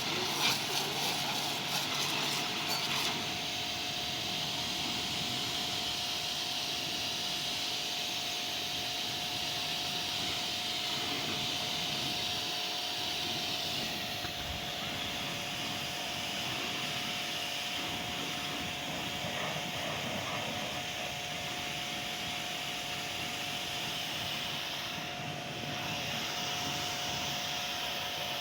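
Car wash machinery running steadily: a constant hiss with a steady whine, with rapid ticking in the first few seconds.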